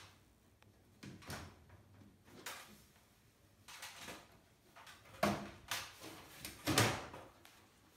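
Handling noises from ceiling-fan assembly: a series of short scrapes and knocks as parts are handled and fitted, the two loudest near the end.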